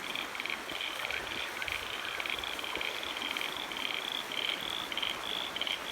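A chorus of frogs calling: short high-pitched notes repeating in quick, rhythmic runs of several a second, over a steady background hiss.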